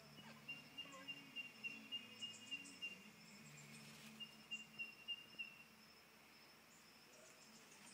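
Near silence: a faint, steady high-pitched insect drone that breaks off about three seconds in and resumes briefly, with soft scattered clicks.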